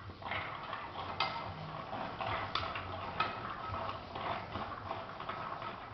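Pinhão seeds in a hot pan on the stove, crackling steadily with many scattered sharp clicks, starting just after the beginning.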